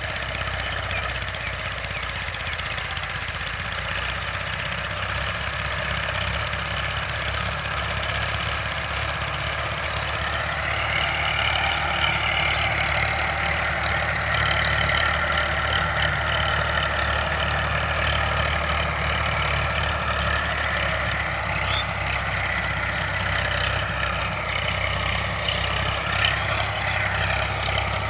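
Sonalika DI 745 tractor's diesel engine running steadily. About a third of the way in, a higher whine joins it and wavers up and down in pitch.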